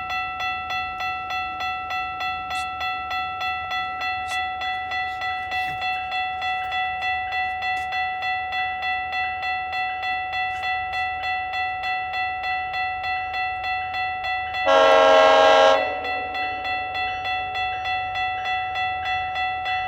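Level-crossing warning bell ringing steadily at about two strokes a second. About fifteen seconds in, a GO Transit commuter train sounds its horn in one loud blast of about a second.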